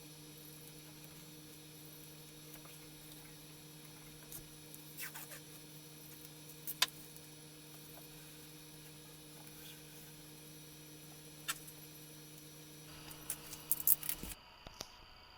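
A steady low hum with a few light clicks and taps scattered through it; a quick run of clicks comes just before the hum cuts off suddenly near the end.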